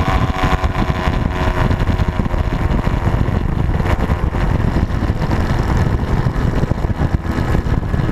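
Motorcycle engine running steadily and loudly, without a break.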